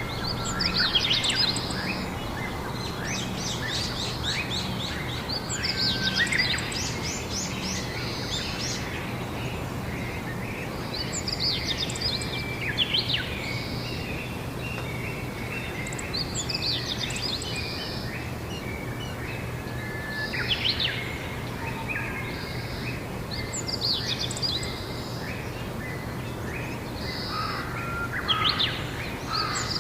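Songbirds singing in short, repeated phrases every few seconds, over a steady low hum.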